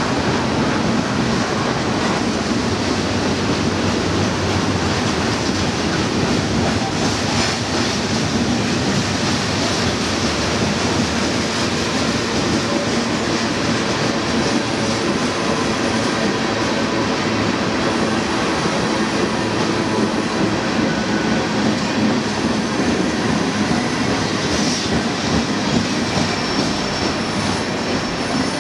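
Freight train of tank cars and coal hoppers rolling past, with a steady rumble and clatter of wheels on the rails. A few faint, brief high wheel squeals come in the second half, and the sound eases slightly as the last car goes by near the end.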